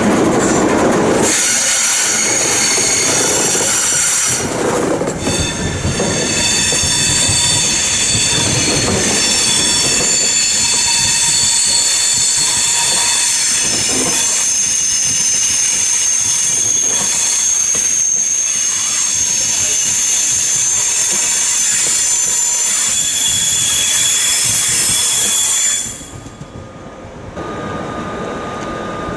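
RegioJet passenger train rolling through the station, its wheels squealing steadily on the rails in several high tones over the rumble of the train. The squeal and rumble cut off suddenly near the end, leaving a quieter background.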